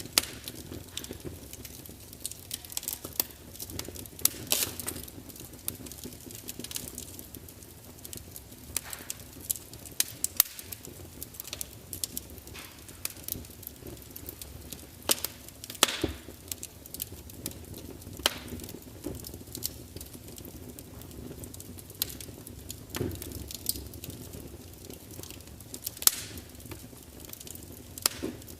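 Wood fire crackling: logs burning in a large fireplace, with irregular sharp pops and snaps over a steady low rumble and hiss of the flames.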